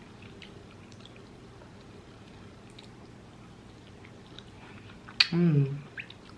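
Faint chewing with small wet mouth clicks from someone eating. About five seconds in comes a sharp click, then a short hummed vocal sound.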